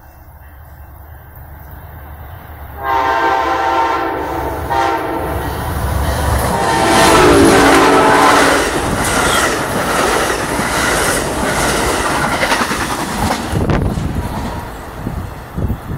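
A GE Genesis P42DC diesel locomotive approaches with a rising rumble and blows its horn about three seconds in, holding it for several seconds; the horn's pitch drops as the locomotive passes. The passenger cars then rush by with rolling wheel noise and clickety-clack that fades near the end.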